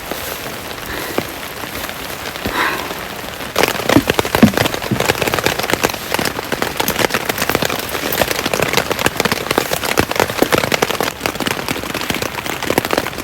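Steady rain with many separate drops striking a tent, getting heavier and louder about four seconds in.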